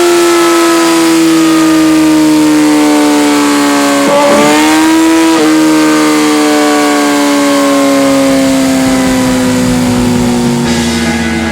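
Kawasaki Ninja ZX-6R inline-four running loud through a LeoVince Factory R Corsa titanium full exhaust, held at high revs. The pitch falls slowly, dips and climbs again about four seconds in, then keeps falling.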